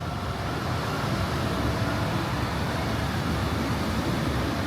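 Steady low rumble with a fainter hiss over it, even in level throughout.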